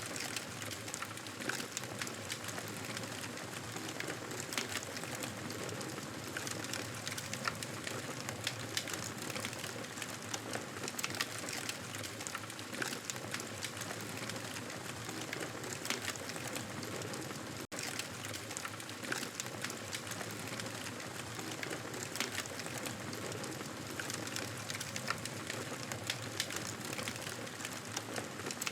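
Wood fire crackling in a fireplace: a steady hiss with frequent irregular sharp pops and snaps. The sound cuts out for an instant about two-thirds of the way through.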